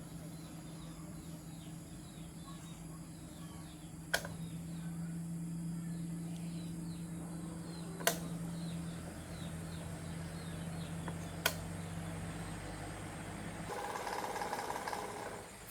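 Electric fan motor running with a steady low hum, broken by a sharp click roughly every four seconds. The hum stops shortly before the end and a different, noisier mechanical sound takes over. Birds chirp faintly in the first few seconds.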